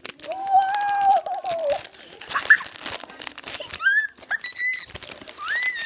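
Plastic packaging crinkling as a squishy toy is unwrapped, with an exclaimed 'whoa' and several short high-pitched squeals over it.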